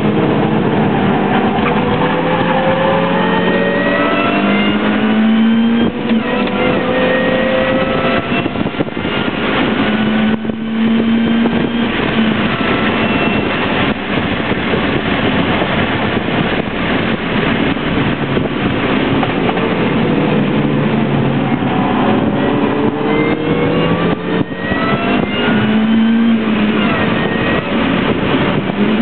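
Mini Cooper's engine heard from inside the cabin while driven hard on track, revving up repeatedly with the pitch climbing and then dropping back at the gear changes, over constant wind and road noise.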